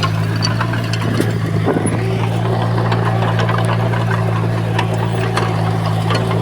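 Heavy diesel engine of construction machinery running steadily with a constant low drone, with scattered metallic clanks and rattles over it.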